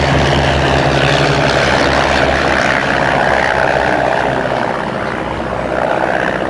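Propeller engines of a Miles Messenger and a twin-engined Miles Gemini droning steadily as the two light aircraft fly past together. The drone eases slightly after about four and a half seconds.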